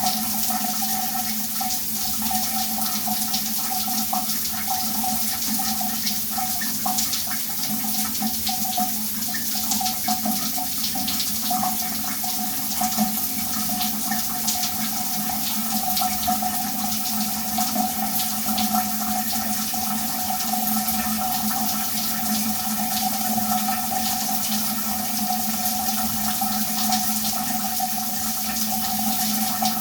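A running shower: a steady spray of water hitting a hard surface, with a dense patter of drops and a steady pitched note underneath.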